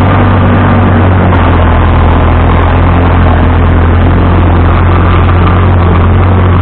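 Vintage tractor engine running steadily, loud and close, with a strong even low hum that does not change.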